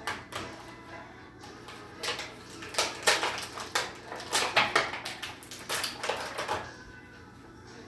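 Toy figure packaging being handled and opened: a quick run of sharp crackles and clicks through the middle, then quieter.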